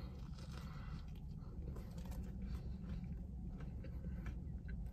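Quiet chewing of a bite of food, with faint small mouth sounds, over a low steady hum in the car.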